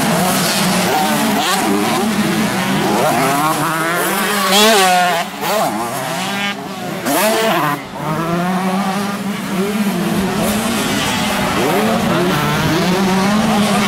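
Several 125 cc two-stroke motocross bikes racing, their engines revving up and down through the gears, loudest about four and a half seconds in as one passes close.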